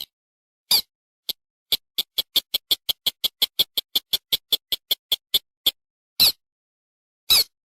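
Lure-call recording of a paddy-field crake (sintar): a single sharp, high call, then a fast run of about twenty short calls at roughly five a second that stops abruptly, then two more single calls near the end.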